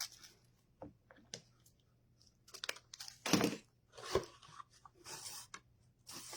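Ribbon rustling and crinkling as it is handled, in a series of short bursts, the loudest about three and a half seconds in.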